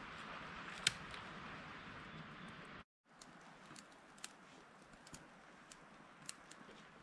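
Faint steady hiss with scattered light clicks and ticks. It drops out to silence for a moment about three seconds in, then carries on quieter.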